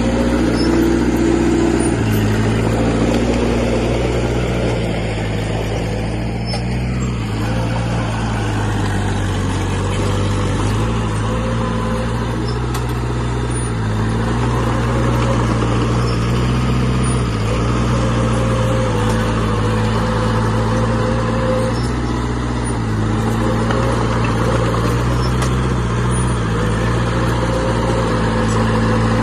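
A heavy earthmoving machine's diesel engine running under working load. Its low engine note shifts up and down in steps every few seconds.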